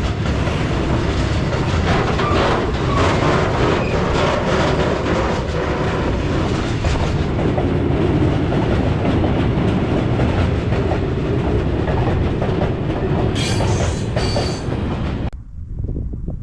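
Freight train passing close by, its wagon wheels clattering rhythmically over the rail joints. Near the end there is a brief high-pitched wheel squeal, and then the noise drops off abruptly.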